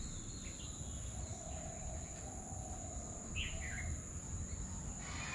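A bird giving a couple of short falling chirps about three seconds in, over a steady high-pitched insect drone and low rumbling background noise.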